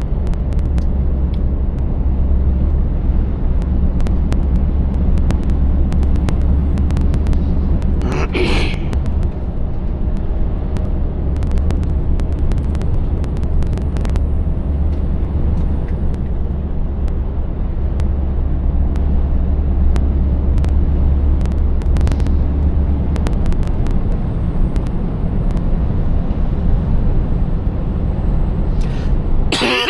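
Scania 590S V8 diesel truck engine running with a steady low drone under road and tyre noise; the drone drops away about three-quarters of the way through, and there is a brief hiss about a third of the way in.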